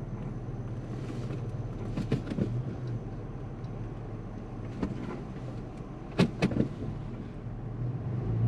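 Four-wheel drive running slowly, a steady low drone heard from inside the cabin, with a few short knocks and rattles from bumps on the track, the loudest two a little after six seconds in.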